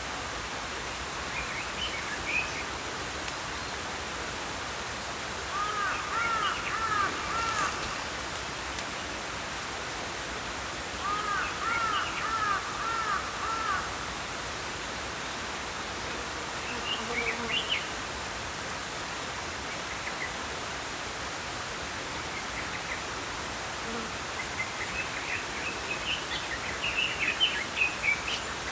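Small songbirds singing over the steady rush of a small stream. There are two phrases of quick repeated looping notes, one about a quarter of the way in and one near the middle, with scattered higher chirps around them and a busier burst of chirping near the end.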